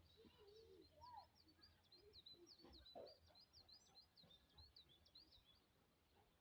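A small songbird singing faintly, a fast run of high chirping notes of about five a second that stops about five seconds in, over quiet outdoor background.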